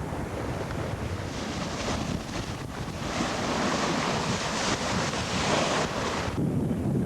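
Sea rushing along the hull of a sailing yacht making about ten knots, with wind buffeting the microphone. About three seconds in, a louder hissing rush of water builds, then drops away suddenly near the end.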